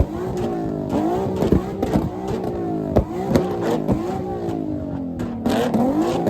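A car engine revved hard against a two-step launch limiter, its pitch climbing and cutting off sharply about once a second, with sharp pops and bangs from the exhaust throughout.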